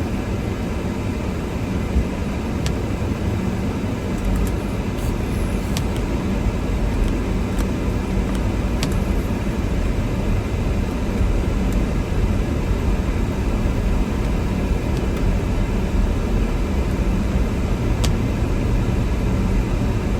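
Car driving through a snowstorm: a steady low rumble of road and engine noise, with a few faint, scattered ticks.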